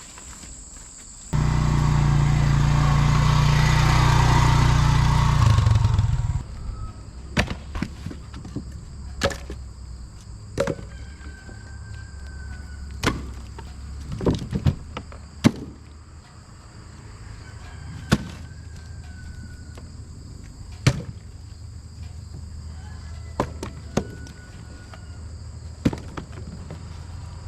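A loud, steady rush with a low hum lasts about five seconds. After it comes a series of sharp wooden knocks at irregular intervals, about a dozen in all, as short firewood logs are handled and tossed down.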